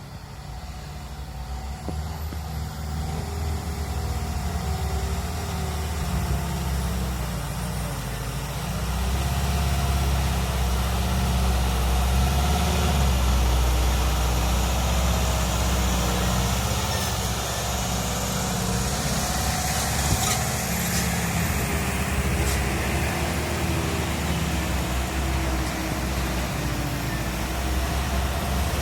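Ashok Leyland 3525 truck's four-cylinder diesel engine running under load, a steady low drone that grows louder over the first ten seconds or so.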